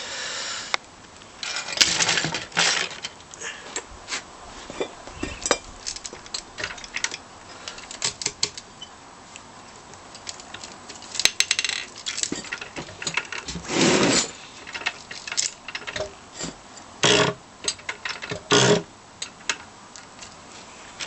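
Yamaha XS650 parallel-twin engine, cylinders removed, being turned over and giving irregular metallic clicks and clunks with several short grinding scrapes; it is not turning smoothly, which the owner takes for something jammed or trapped down in the crankcase.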